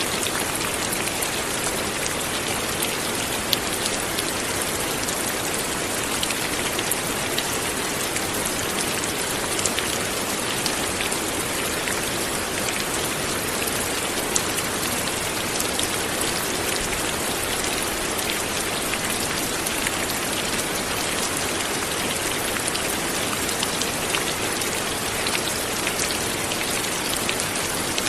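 Steady light rain falling, an even hiss with many small drops pattering on a surface.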